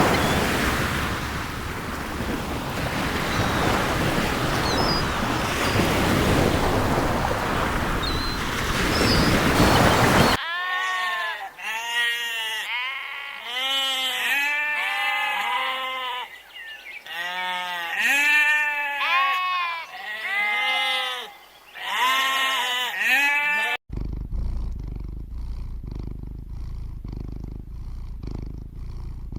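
Ocean surf with a few faint bird calls. About ten seconds in it cuts to a flock of sheep bleating, many overlapping calls. Near the end it cuts abruptly to a cat purring, a low steady rumble.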